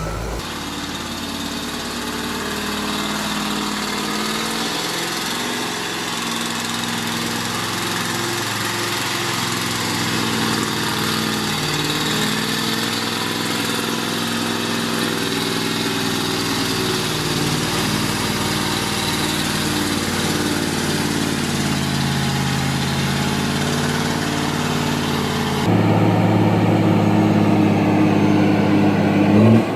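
An engine running steadily, its pitch drifting slowly up and down. About 26 seconds in, it changes abruptly to a louder, deeper engine sound.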